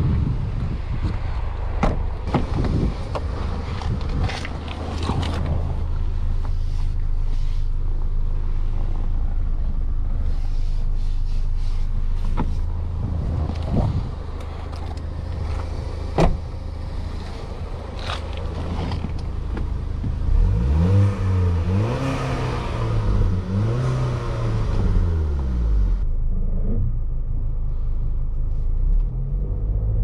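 Range Rover Evoque's 2.0-litre turbocharged four-cylinder petrol engine idling steadily, with scattered clicks and knocks, then revved up and down a few times about two-thirds of the way through.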